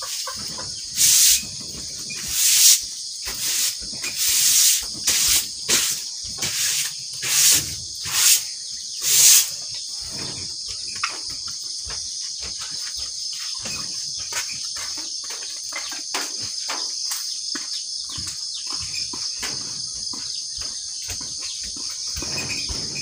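A broom sweeping floodwater across a floor, about ten loud swishing strokes in the first ten seconds, over a steady high-pitched chorus of crickets. Faint irregular ticks follow once the sweeping stops.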